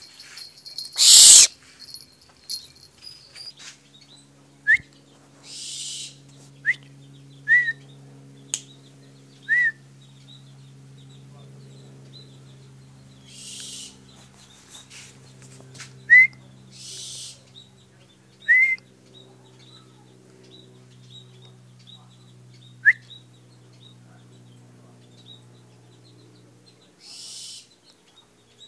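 Barn owl calling: one loud, harsh, rasping call about a second in, then short chirps every few seconds and a few softer hisses. A faint steady hum runs underneath.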